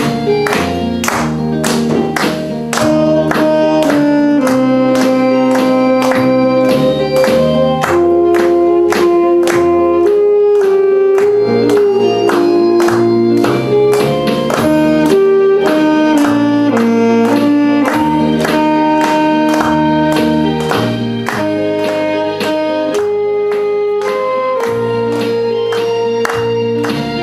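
Saxophone playing the melody in long held notes over a recorded backing track with a steady beat.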